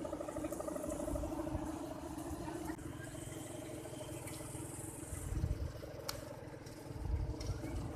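Steady, wavering drone of the hummers (guangan) on large Balinese kites flying in strong wind, with gusts of wind buffeting the microphone.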